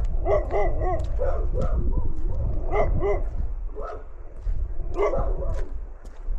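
A dog barking and yipping in several short bursts of quick calls. Under it run a steady low rumble and light crunching footsteps in snow.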